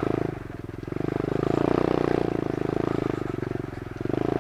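Small single-cylinder four-stroke engine of an SSR 125 automatic pit bike running, its sound swelling up and easing off twice.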